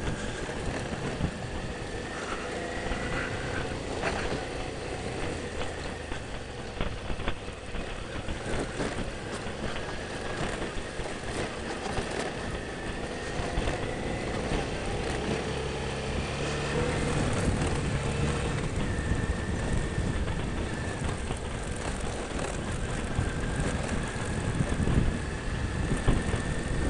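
Motorcycle running steadily on a dirt road, with wind noise on the microphone.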